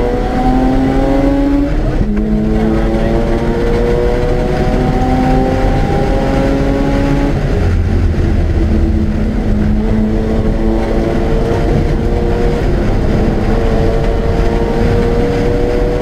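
Mazda RX-8's two-rotor Wankel rotary engine pulling hard on track, its pitch climbing steadily under acceleration and falling back sharply three times, about two seconds in, after seven seconds and near the end. Steady road and wind noise runs under it.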